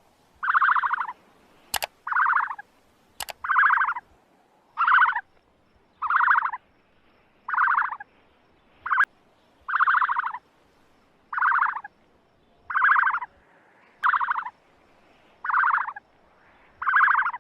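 An animal call, a short rattling burst of rapid pulses, repeated about thirteen times, roughly once every second and a half.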